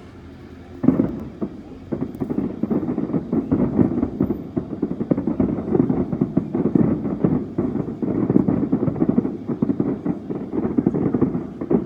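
Fireworks display going off in a rapid, continuous barrage of muffled bangs, starting with a loud bang about a second in.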